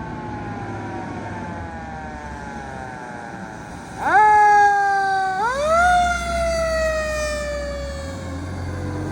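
Fire truck siren winding down, then sounding again loudly about four seconds in: the tone jumps up, dips briefly, rises again and slowly falls away, over the low rumble of the truck.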